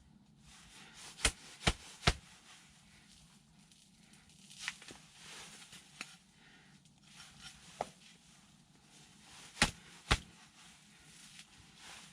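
Sharp knocks of hard objects being handled: three quick knocks about a second in, lighter clicks and rustling, then two more knocks near the end.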